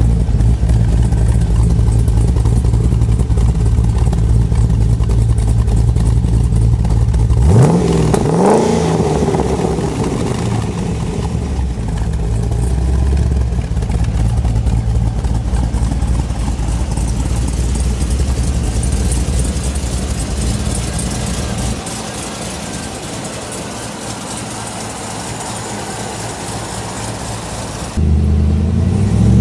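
Cammed HSV Maloo V8 idling through its quad exhaust, with one sharp rev blip about a third of the way in that climbs quickly and falls back. Near the end the sound switches to inside the cabin as the V8 accelerates, its pitch climbing.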